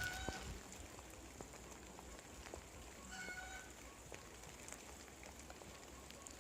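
Light rain falling steadily, with a sharp knock at the start and two short bird calls, one just after the knock and one about three seconds in.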